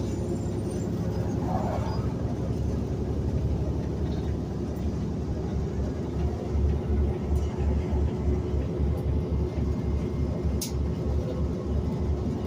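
Transit bus underway: steady engine and road rumble, with a pulsing low drone from about halfway through.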